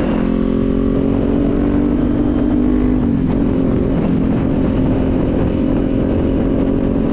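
Motorcycle engine running at a steady speed while riding, with wind and road rumble; its pitch drops a little about three seconds in, then holds steady.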